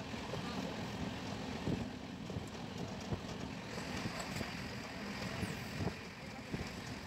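Passenger express train running at speed: a steady rumble of wheels on the rails with occasional short knocks, and wind rushing past the open door onto the microphone.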